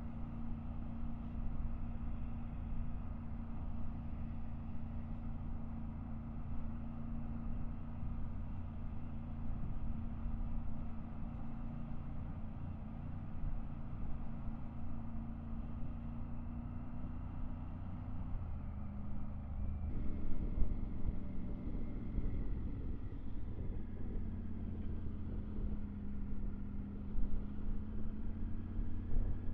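Triumph Tiger 900 GT Pro's three-cylinder engine running at a steady cruise, with low wind rumble. About two-thirds of the way through, the engine note drops and then slowly climbs again.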